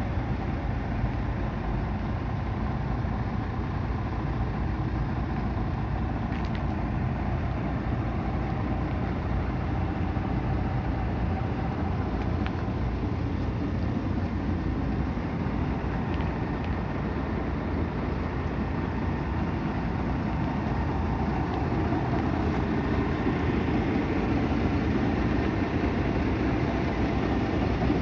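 Scania G450 truck's 13-litre inline-six diesel engine idling steadily, a little louder over the last few seconds.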